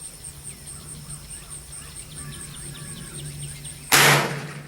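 A single shot from a Smith & Wesson M&P 15-22 .22 LR rifle about four seconds in, sharp and loud, fading over about half a second. Before it, a steady high insect drone with small bird chirps.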